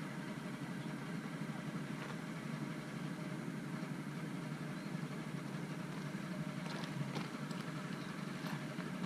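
Steady low engine hum with a few faint clicks.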